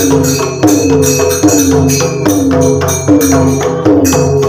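Instrumental bhajan accompaniment: a dholak-style hand drum playing a repeating rhythm with a strong stroke about every 0.8 s, under the steady metallic clash of jhal hand cymbals.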